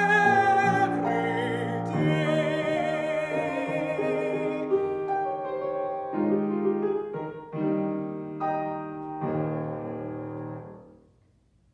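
Classical solo voice holding the song's last notes with vibrato over piano, then the piano playing the closing chords alone, dying away about eleven seconds in.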